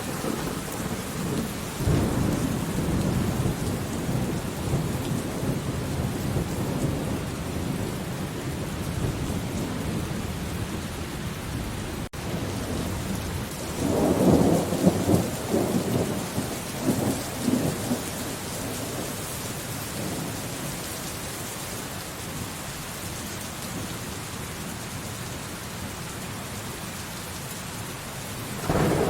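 Steady rain falling with rolling thunder: a long rumble starts about two seconds in, and a louder clap and rumble comes near the middle. There is a split-second dropout in the sound just before the louder rumble.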